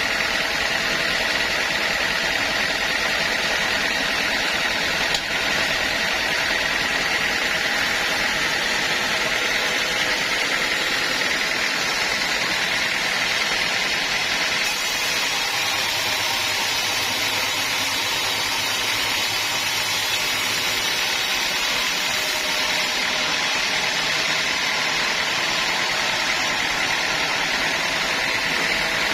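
Sawmill machinery running steadily, a constant mechanical noise with a steady high whine.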